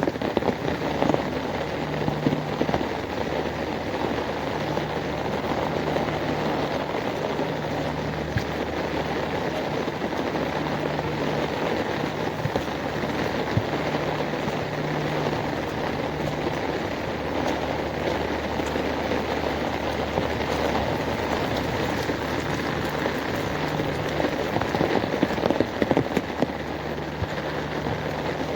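Steady rain falling and splashing on hard surfaces, with a low mechanical hum underneath that cuts in and out several times.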